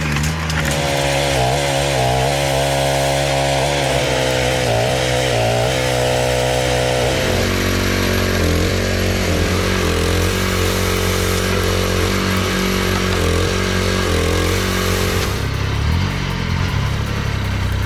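A motor-driven machine running loud and continuously, its pitch wavering up and down as if under changing load, settling to a lower, steadier pitch about seven seconds in.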